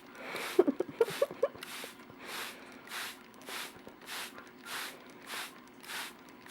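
Hand-pumped spray bottle squirting a fine mist of water in a steady rhythm, a little under two squirts a second, each squirt a short hiss. A few soft, short sounds come in the first second or so.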